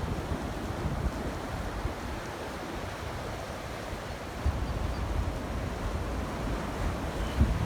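Ocean surf washing steadily, with wind gusting and buffeting the microphone; the gusts come stronger about halfway through and again near the end.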